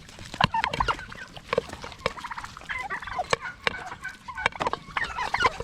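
Turkeys calling in short wavering notes while sharp clicks and taps come thick and irregular throughout: their beaks pecking at a dish of macaroni and cheese.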